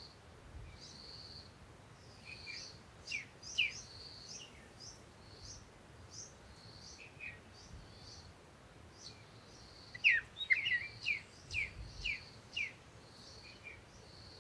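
Birds chirping: a steady series of short, high repeated notes, with a louder run of about six quick falling chirps starting about ten seconds in.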